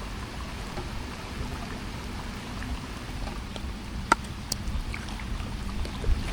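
Steady rain falling, with scattered drips and one sharp tap about four seconds in.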